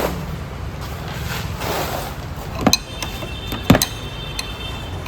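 Metal tools knocking against suspension parts as nuts and bolts are fitted, with a few sharp clanks, the loudest in the middle, one of them ringing on briefly, over a steady low workshop hum.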